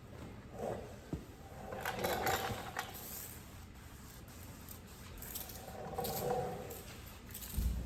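Disposable gloves being pulled onto the hands: irregular rubbery rustling and scraping with a few light snaps, loudest about two seconds in and again around six seconds, and a dull knock near the end.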